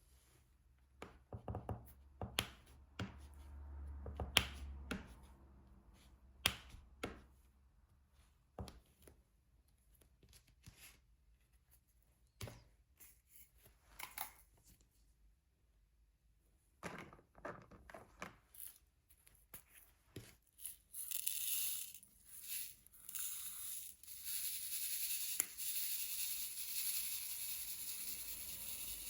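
Diamond painting heard close up: scattered light taps and clicks of the drill pen and resin drills on the canvas. About twenty seconds in, a steady, hissy rustle takes over and lasts to the end.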